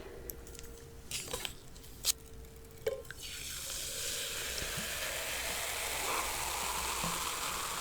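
A few light clicks and taps, then from about three seconds in a steady fizzing hiss of carbonated cola.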